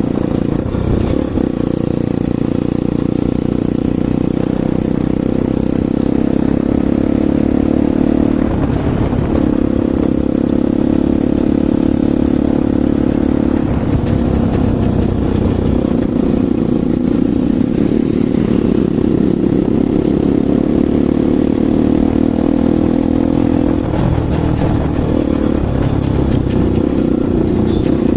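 Bajaj Pulsar NS200's single-cylinder engine running through an aftermarket Akrapovic exhaust, loud and steady, its pitch holding for stretches and changing a few times: about a second in, and again around nine, fourteen and twenty-four seconds.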